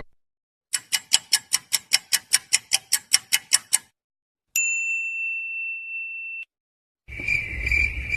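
A string of separate stock sound effects: a run of about fifteen quick, even clicks like typewriter keys or a ticking clock, then a steady high beep lasting about two seconds, then a noisy effect with a held tone starting near the end.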